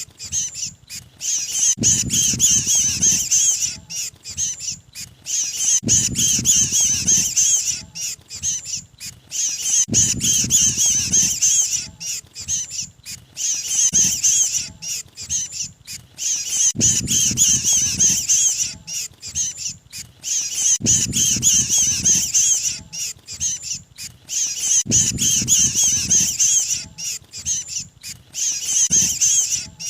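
Lure recording of mantenan (flowerpecker) distress calls, the cry of a caught bird: rapid, high-pitched chattering cheeps that repeat in a loop about every four seconds, with a low rumble in each cycle.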